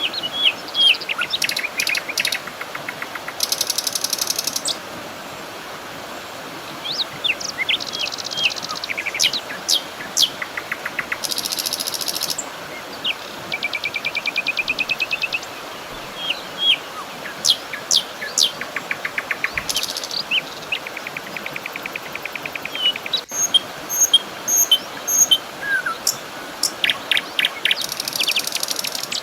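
Several birds chirping and singing in short calls and fast trills, over a steady rush of flowing water.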